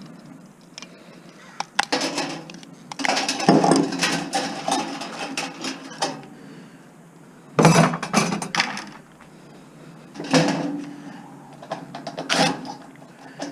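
Scrap being handled and pulled apart by hand: several short bursts of clattering and rustling with sharp clicks, a second or two apart.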